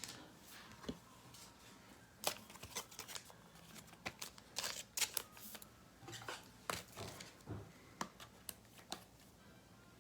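Trading cards being handled and slid against one another, scattered soft rustles and clicks.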